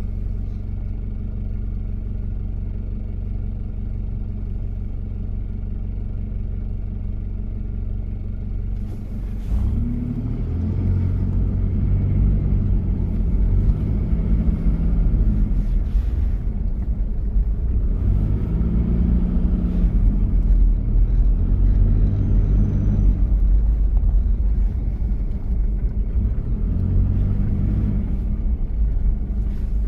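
1993 Toyota Prado diesel engine idling steadily, then, after a click about nine seconds in, it pulls away louder, its note rising and dropping several times as it accelerates through the gears.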